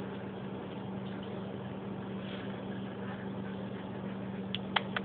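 Steady low electrical-sounding hum over a background hiss, with a few short sharp clicks near the end.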